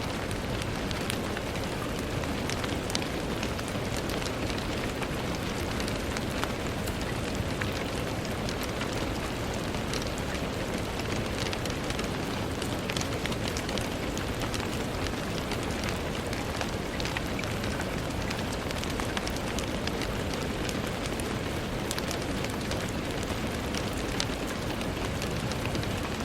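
Steady gentle rain pattering on a window, an even hiss dotted with many small, sharp drop taps.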